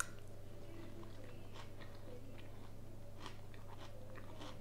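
A person chewing a mouthful of soft layered herring-and-mushroom salad close to a clip-on microphone: a sharp click as the fork goes in, then faint wet mouth clicks, over a steady low hum.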